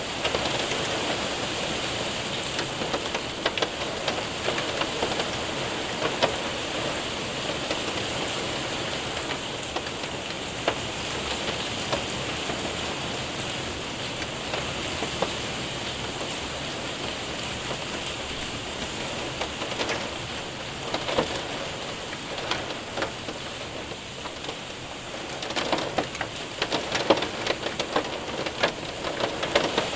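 Hail and rain hitting a window and roof: a steady hiss of rain with many sharp ticks of hailstones striking, which grow denser and louder about three-quarters of the way through.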